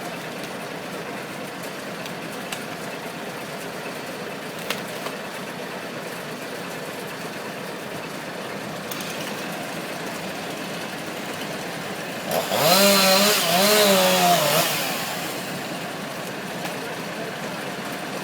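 A chainsaw revs up and runs hard for about two and a half seconds near the end, its pitch rising at the start and wavering, over a steady background drone.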